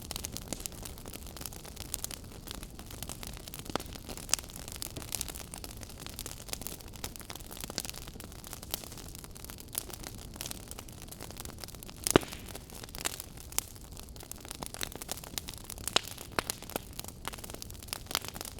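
Wood fire burning in a fireplace, crackling with frequent irregular pops over a steady low rush of flame, one sharper pop about twelve seconds in.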